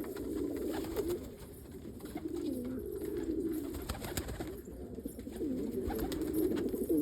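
Several domestic fancy pigeons cooing, their low wavering coos overlapping into a continuous warble.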